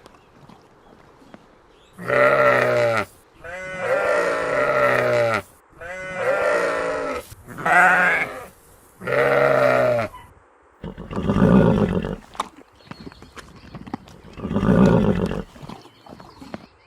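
Horse calling: five wavering, pitched nickers of about a second each, then two lower, rougher calls.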